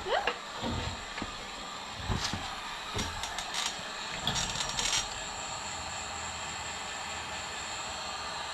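Electric heat gun running with a steady fan-and-heater hiss and a faint high whine, switched up with a quick rising whir at the start. Several clicks and knocks of it being handled come in the first few seconds.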